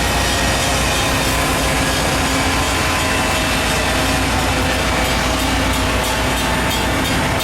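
A train running close by on the rails: a loud, steady rumble of wheels and cars with a few steady tones ringing over it.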